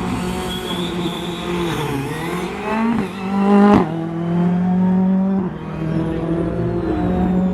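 Rally car engine revving hard, climbing to its loudest about three and a half seconds in. It then drops abruptly to a steadier, lower note.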